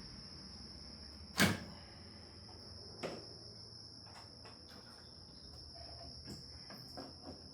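Crickets trilling steadily and high throughout, under a sharp knock of metal tools in an engine bay about a second and a half in, a softer knock around three seconds, and a few light clicks near the end.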